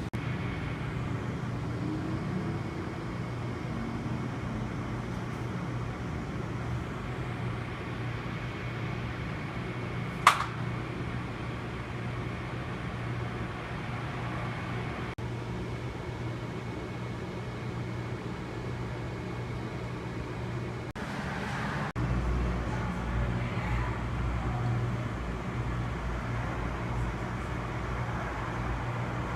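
Steady engine hum of a vehicle heard from inside it, with one sharp click about ten seconds in and a deeper rumble joining about two-thirds of the way through.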